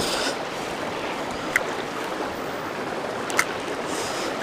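A river running, a steady rush of flowing water over rocks, with two short high chirps about two seconds apart.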